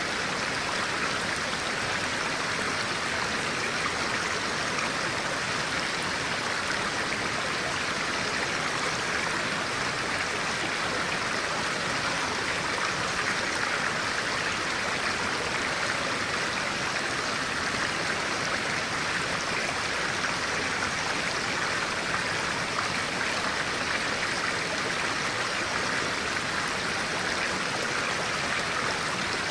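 Clear stream water flowing steadily, a continuous rushing with no change.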